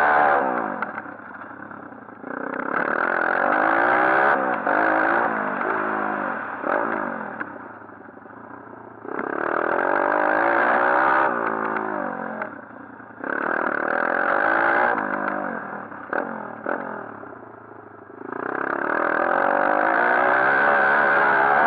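140cc pit bike's single-cylinder four-stroke engine being ridden hard, revving up in four bursts of throttle, with the pitch falling away between each as the rider shuts off. There are some clattering knocks in the lulls.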